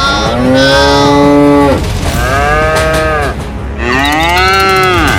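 Cow mooing three times in a row, each moo lasting about a second and a half and rising then falling in pitch, over a steady low hum.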